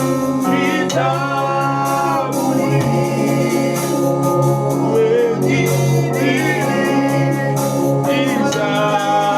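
Gospel music: voices singing over a steady, sustained instrumental backing.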